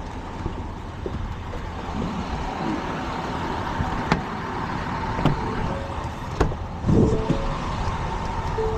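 A motor vehicle running steadily, with a few sharp clicks and a louder thump about seven seconds in.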